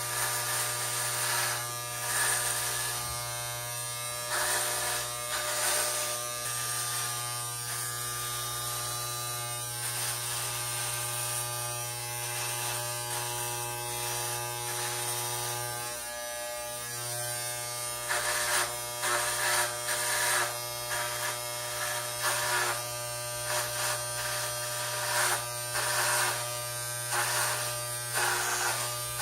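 Electric hair clippers buzzing steadily while shaving the hair of an undercut, with repeated short crisp bursts as the blades pass through hair, more frequent in the second half. The buzz falters briefly about halfway through.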